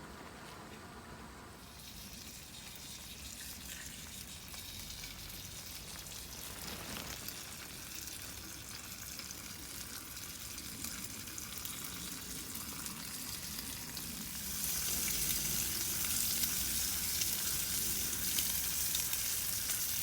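Ingredients for a hot sandwich frying in a hot pan, a steady crackling sizzle. It grows louder, with a marked step up about fifteen seconds in.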